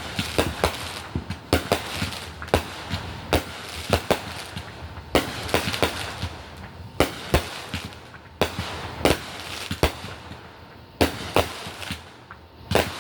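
Fireworks going off: many sharp bangs at uneven intervals, several a second, some louder than others.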